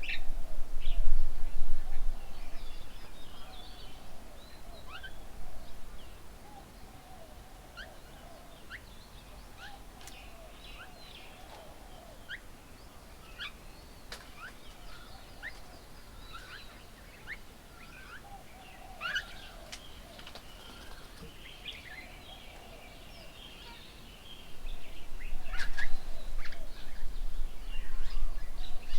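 Several wild birds calling: many short, high chirps and whistles over a lower, wavering call. A low rumble sounds in the first two seconds and again over the last five seconds.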